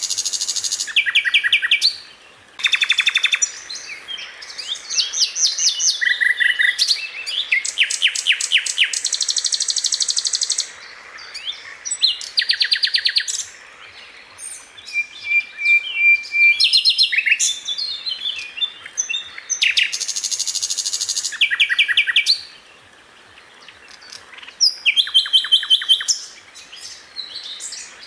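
Sikatan londo, a flycatcher, singing in quick bursts of rapid, tightly repeated high notes and trills, each burst lasting a second or two with short pauses between them.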